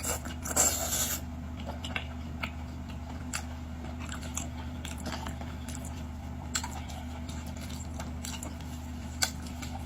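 A person chewing and biting into boiled seafood, with scattered crunches and a denser crackling crunch about half a second in.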